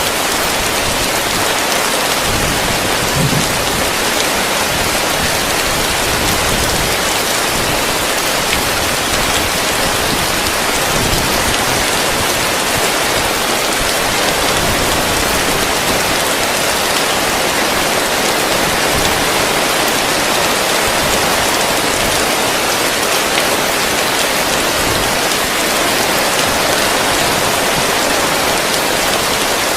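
Heavy rain falling steadily on a roof: a dense, even hiss of countless drops that does not let up.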